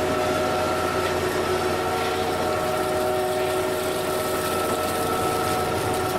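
Carrot harvesting machine running: steady engine and machinery noise with several held whining tones over it.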